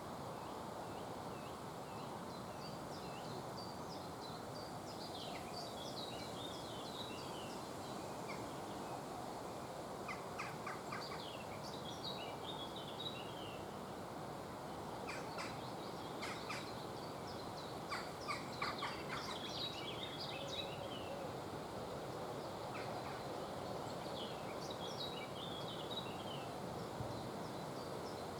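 A small songbird singing: about four short warbling phrases, each a couple of seconds long, several seconds apart, with a few brief rattling clicks between them over a steady background hiss.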